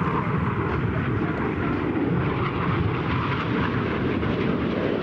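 BAE Hawk T1 jet engines of the Red Arrows running at display power as aircraft pass close to the crowd: a loud, steady jet noise that holds level throughout.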